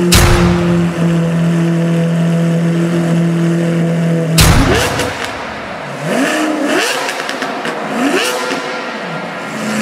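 Car engine running steadily, then revved several times in rising sweeps. There is a sharp loud hit at the very start and another about four seconds in, just before the revving.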